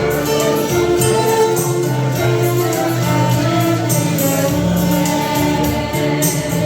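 Music: a violin playing a slow melody of held notes over a backing track with a bass line and light percussion.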